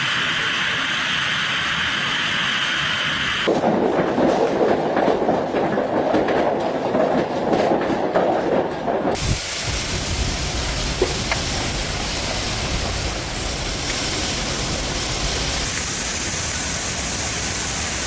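Steady, loud rushing storm noise of wind and heavy rain, in several clips that change character about 3.5 s and 9 s in.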